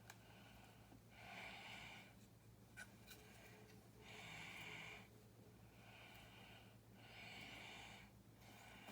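Soft breathing close to the microphone: a run of quiet nasal breaths, about one every second or so, with a couple of faint plastic clicks from bricks being handled.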